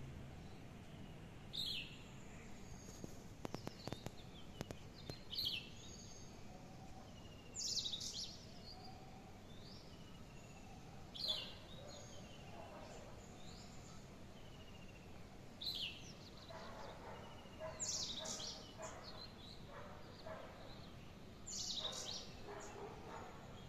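Birds chirping and calling in short bright bursts every few seconds, more often near the end, over faint steady background noise.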